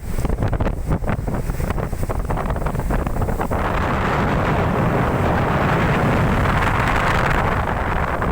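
Strong storm wind buffeting the microphone in choppy gusts, settling after about three and a half seconds into a steady rush of wind and rough water.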